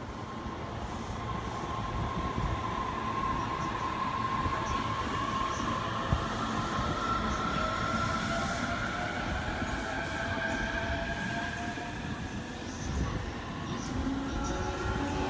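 E233/E231-series electric commuter train running along the platform, most likely pulling in: steady rolling of steel wheels on rail with a high whine from the motors or wheels. There is a single sharp click about six seconds in.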